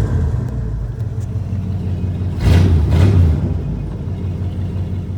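Truck engine running with a steady low rumble, growing louder for about a second near the middle. The engine's distributor has been turned, so it runs with changed ignition timing.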